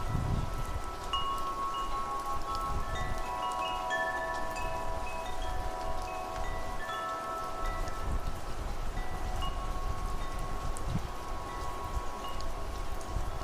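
Metal wind chimes ringing at random in the wind, many clear tones struck and left to ring out and overlap, over low gusting wind and a faint hiss of rain.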